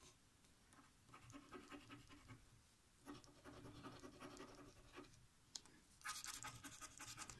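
Faint scratching of the latex coating off a lottery scratch card, in three bursts of quick back-and-forth strokes.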